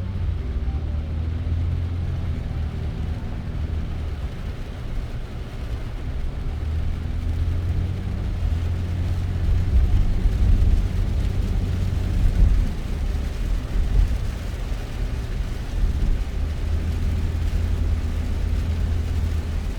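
Car driving: a steady low rumble of engine and tyre noise, with a few short louder bumps in the second half.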